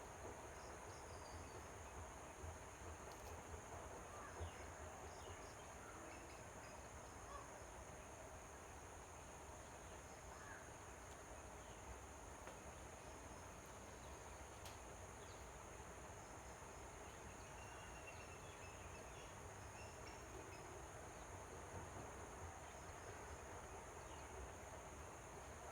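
Faint outdoor background: a steady high-pitched hiss with a few faint, short bird chirps scattered through it.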